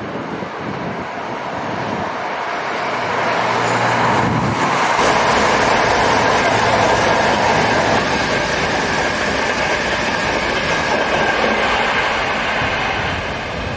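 LNER InterCity 225 electric express passing at speed: a steady rush of wheels on rail and air that builds over the first few seconds and eases off near the end.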